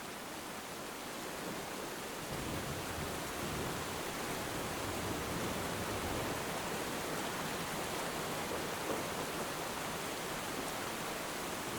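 Steady heavy rain falling as an even hiss, growing louder and deeper about two seconds in.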